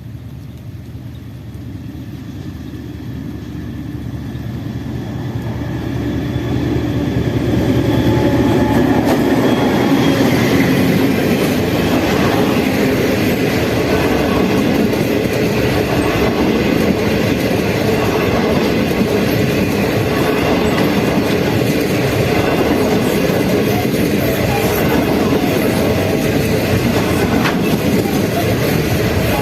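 Passenger train hauled by a DF7G-C diesel-electric locomotive, approaching and growing louder over about the first eight seconds. It then passes close by with a steady loud rumble and the running noise of its wheels on the rails.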